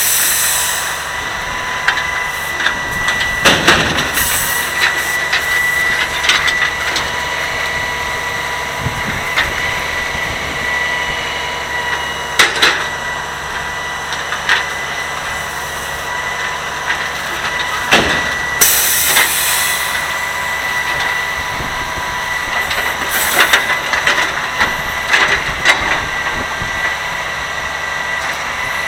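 Grapple truck running with a steady high whine from its engine and hydraulics, broken by a few sharp knocks and crunches as the claw grabs bulk trash, and a short hiss about two-thirds of the way through.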